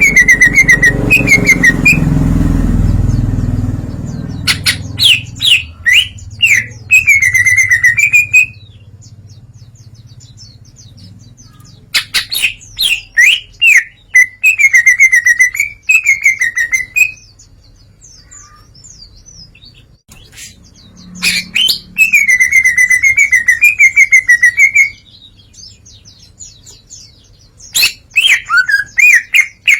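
Greater green leafbird (cucak ijo) singing loudly in repeated phrases of rapid chirps and sweeping whistles, each ending in a warbling trill, with pauses of a few seconds between phrases. It is in full song, running through its repertoire. A low rumble sits under the first few seconds.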